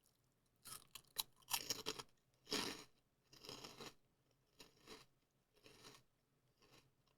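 Close-up chewing of light, airy, crunchy puffed wheat snacks (Lay's Boca Bites), a run of crisp crunches that grow fainter and sparser toward the end.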